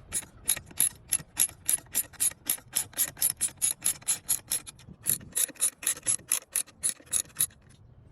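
Hand ratchet wrench clicking steadily, about four to five clicks a second, with a brief pause about five seconds in and stopping shortly before the end.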